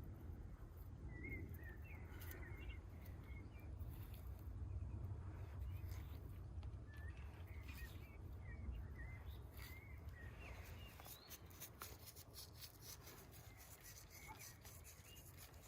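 Faint small-bird chirps and twitters over a low outdoor rumble, with a few soft clicks in the last few seconds.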